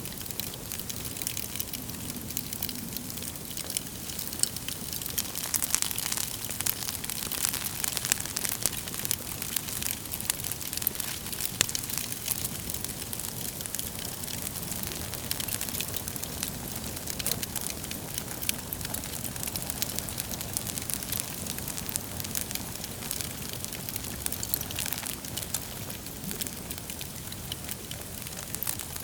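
Wood fire burning in a fireplace: a steady hiss of flames with dense crackling and occasional sharper pops from the burning logs.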